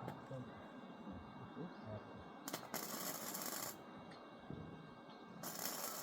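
Electric arc welding: two short bursts of crackling, hissing arc, each about a second long, one in the middle and one near the end.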